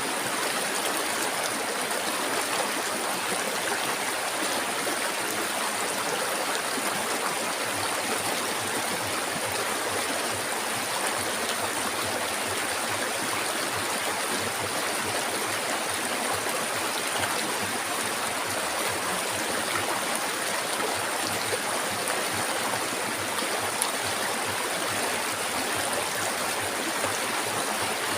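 River water flowing steadily over rocks, a constant even rush with a faint steady high hiss above it.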